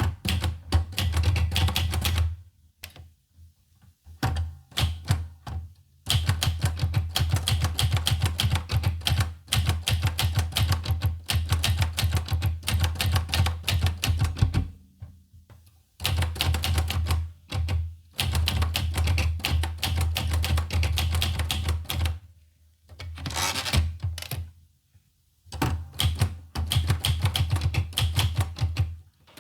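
Olivetti Lettera 25 manual typewriter being typed on in quick runs of key strikes, each a sharp clack with a dull thud beneath. The typing stops three times, briefly, about two seconds in, around the middle, and a few seconds before the end. During the last stop there is a short rasp.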